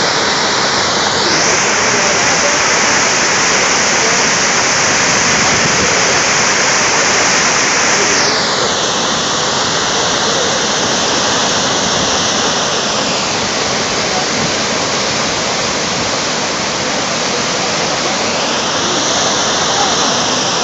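Sa'ar waterfall in full winter spate: a loud, steady rush of falling water, its hiss shifting in tone a few times.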